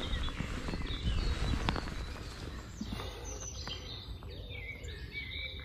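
Small birds chirping in short high calls from about halfway through, over a low outdoor rumble with a few soft knocks in the first couple of seconds.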